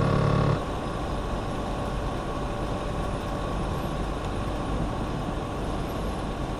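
Truck running in a storm: a loud, steady tone with many harmonics cuts off about half a second in, leaving a steady rush of vehicle and storm noise.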